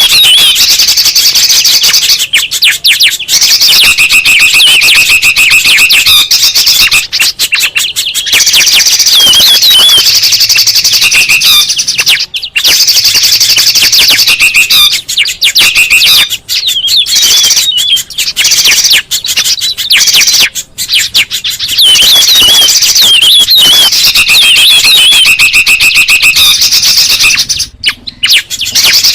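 Loud, busy chorus of songbird calls from a bird-lure recording: dense, high-pitched chattering and wavering whistled notes that repeat throughout, with a few brief breaks.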